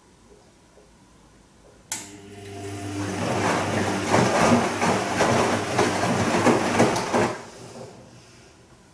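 Bosch Serie 2 Vario Perfect washing machine during its Silk programme: a click about two seconds in, then a steady hum joined by loud, irregular water sloshing for about five seconds, which stops suddenly.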